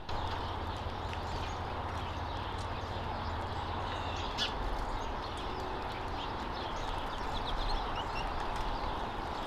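Small birds chirping at a feeder, many short high calls, with scattered short ticks over a steady outdoor hiss.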